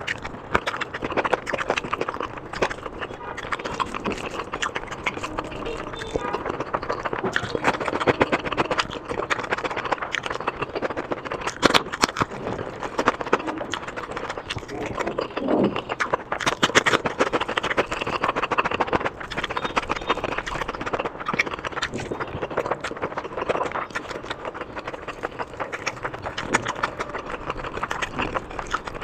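Close-miked eating sounds: steady wet chewing and mouth smacking with many small clicks and crackles.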